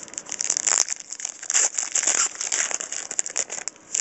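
A trading-card pack wrapper crinkling and being torn open by hand: an irregular run of crackles.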